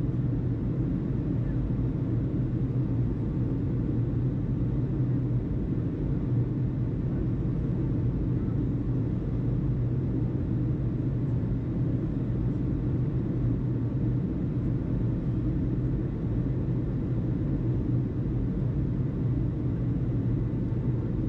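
Steady low rumble of background noise between radio calls, with no distinct events: airport ambience with distant jet engine noise.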